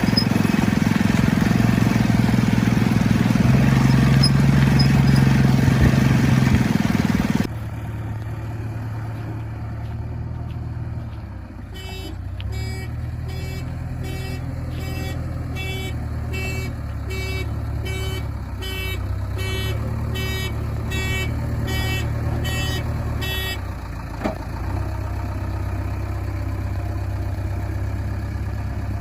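Heavy diesel engine of a backhoe loader or truck running hard, then, after a sudden change, running steadily at lower revs while a reversing alarm sounds a train of short beeps, about one and a half a second, for some ten seconds before stopping.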